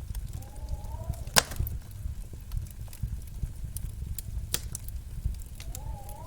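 Wood fire crackling in a fireplace: a low steady rumble of flames with scattered sharp pops, the loudest about a second and a half in and again about four and a half seconds in. Faint gliding music tones come in briefly near the start and again near the end.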